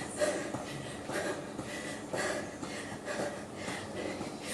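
A person breathing hard through a cardio exercise: quick, noisy breaths about twice a second.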